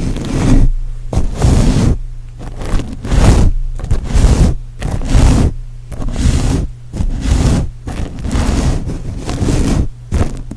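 Rhythmic scraping strokes right against the microphone, a little over one a second with brief pauses between them, an ASMR scratching or brushing trigger.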